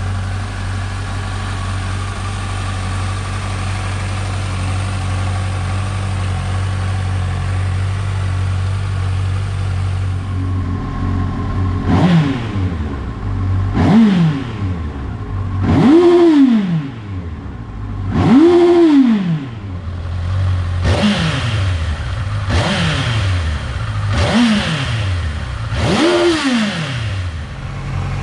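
Honda CBF1000 motorcycle's inline-four engine idling steadily through its exhaust. It is then blipped about eight times, each rev rising and falling quickly back to idle, the third and fourth held a little longer, before settling back to idle near the end.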